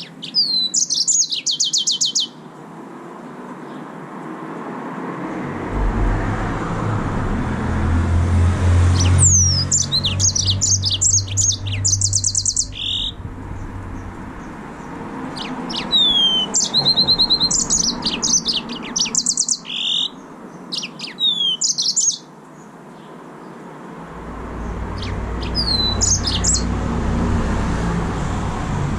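Yellow-fronted canary (green singing finch) singing in bouts of quick, high-pitched trills and down-slurred notes, each phrase one to four seconds long, about five bouts. A low rumble swells and fades twice in the background.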